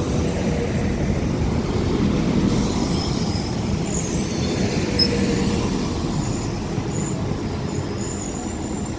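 Transport for Wales Class 197 diesel multiple unit pulling into the station: a steady rumble of engines and wheels on the rails. From about four seconds in come thin, high squeals from the wheels and brakes as it slows.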